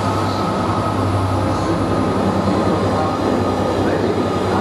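A long intermodal freight train of container wagons rolling past with a steady rumble of wheels on rail, under the low, steady hum of its Class 66 locomotive's two-stroke diesel engine.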